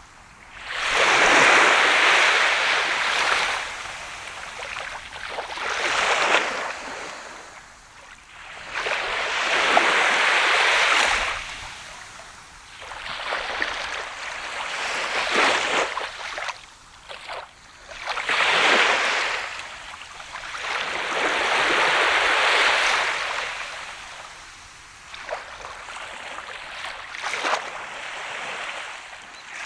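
Sea of Japan waves breaking and washing up a sandy beach, each surge of surf swelling and then fading, about every four seconds.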